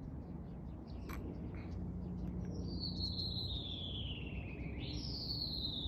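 A bird's long trilled call, a fast chatter that slides steadily down in pitch and sounds like laughing. One call starts about two and a half seconds in, and a second begins near the end.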